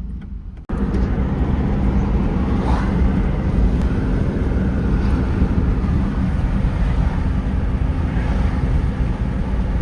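Loud, steady rush of wind and road noise from a moving car, deepest in the low end. It cuts in abruptly just under a second in, after a brief dropout.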